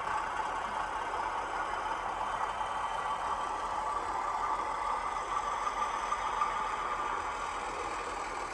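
Diesel engine sound from the DCC sound decoder in a Hornby 00 gauge Class 31 model locomotive, running steadily as the train sets back. It plays through the model's small speaker, so it sounds thin and sits mostly in the middle range.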